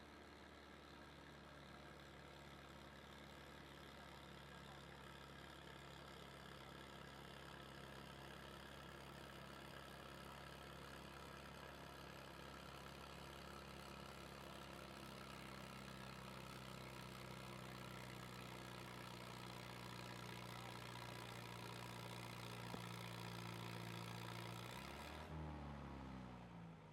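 An engine running at a steady speed and slowly growing louder, then changing pitch and fading as it winds down near the end.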